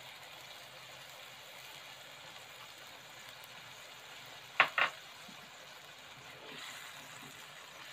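Eggplant and tofu in tomato sauce simmering in a wok with a soft, steady sizzle. Two sharp clicks in quick succession come about four and a half seconds in.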